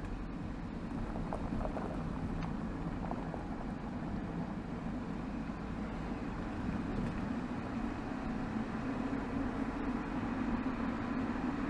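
BMW 320xd's 2.0-litre four-cylinder turbodiesel (B47D20) running steadily, heard at the exhaust tailpipe, with a low hum that grows slightly stronger toward the end.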